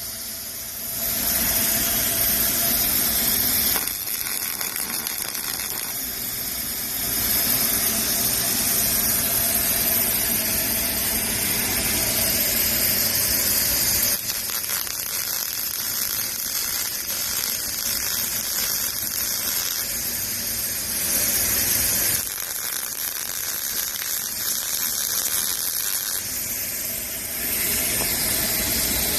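Robotic arc welding: the steady sizzling crackle of a welding arc, shifting in loudness in sections lasting a few seconds each.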